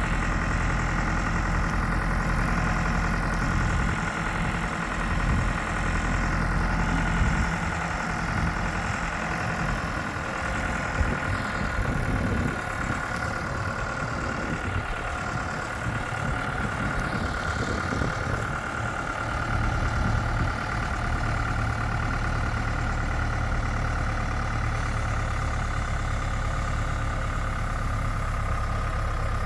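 An engine running steadily, with a constant whine above it. The low engine note changes about ten seconds in and again about twenty seconds in.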